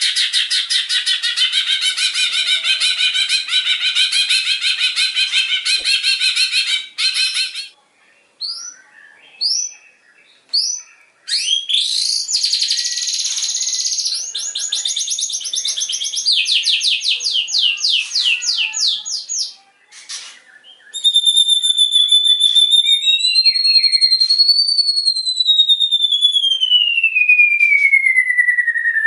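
White-rumped shama singing loudly. It opens with about seven seconds of rapid-fire rattling bursts (the 'tembakan' phrases), then gives separate up-swept notes and another fast rattling series. In its last third it holds one long clear whistle that rises slightly, then glides steadily down in pitch.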